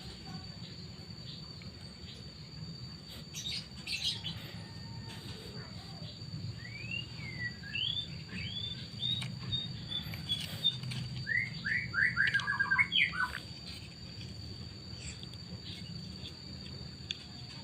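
Birds chirping: a string of short sweeping calls, then a quick burst of rapid notes about two-thirds of the way through, over a faint steady high tone and a low hum.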